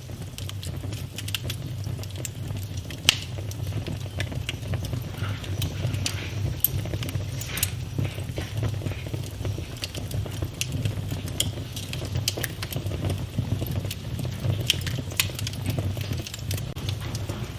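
Wood fire burning in a fireplace: a steady low rumble of the flames with scattered crackles and pops, one sharper pop about three seconds in.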